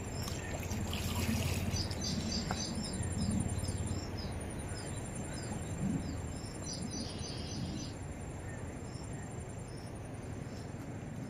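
A small bird calling over and over, short high chirps that fall in pitch, about two a second, fading out near the end, over a steady low rumble.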